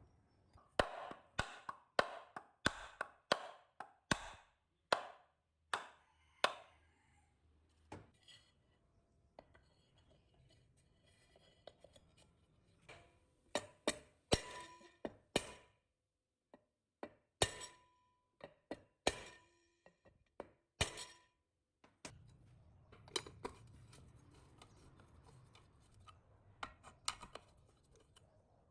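Sharp taps and knocks on metal fan parts, coming in runs of about two a second with pauses between. Some strikes leave a short metallic ring.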